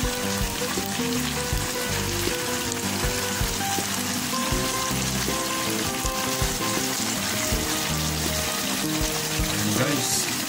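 Mixed pinakbet vegetables sizzling steadily in a nonstick wok, with background music playing over it.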